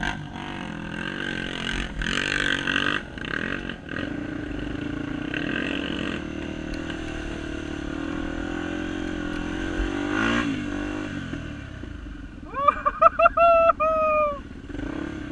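Honda XR250 Tornado dirt bike engines revving, the pitch rising and falling. Near the end comes a rapid string of short, high tones, the last held longer.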